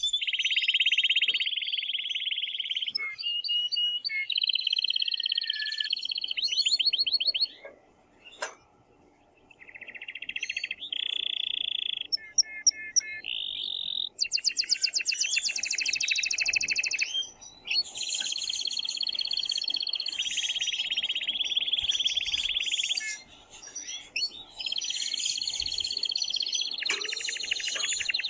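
Male domestic canary singing loudly: phrase after phrase of fast trills and rolls, with a short pause about eight seconds in.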